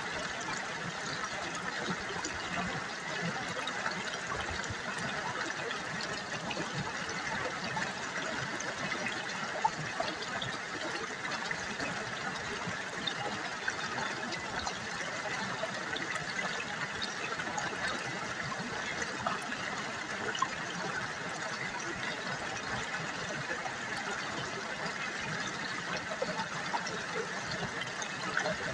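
River water babbling steadily, a continuous trickling and splashing, with one brief sharp click about ten seconds in.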